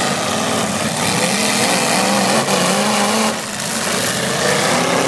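Several eight-cylinder demolition derby car engines running and revving, their pitch rising and falling as the cars maneuver.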